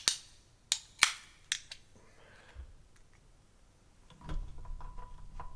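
Aluminium drink can being pried open with a small screwdriver: a quick run of five sharp metallic clicks and snaps as the blade works under the pull tab, followed by a low rumbling handling noise with faint ticks.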